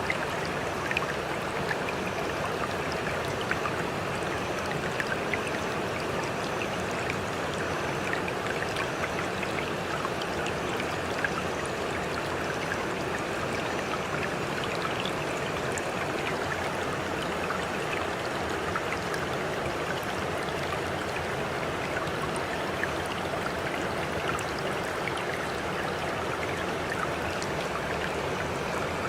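A stream of water flowing steadily: a continuous rush with small splashing ticks scattered through it.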